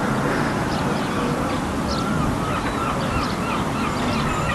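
Birds calling over a steady low rumble: short high chirps throughout, and a run of quick, repeated yelping calls from about halfway through.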